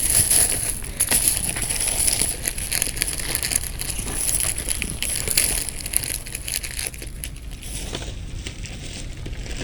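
Cat crunching dry cat food: a dense run of crackling, crunching clicks that thins out about seven seconds in, over a steady high hiss that cuts off suddenly near the end.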